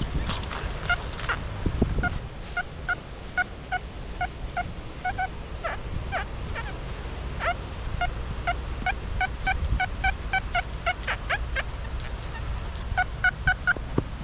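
XP Deus metal detector beeping: short tones at one pitch, repeated in irregular runs as the coil passes over buried metal, with a quick cluster near the end. Low wind rumble on the microphone underneath.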